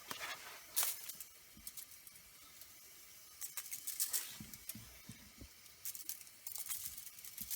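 Faint, scattered rustling and light clicks of things being handled, with a few soft low thumps.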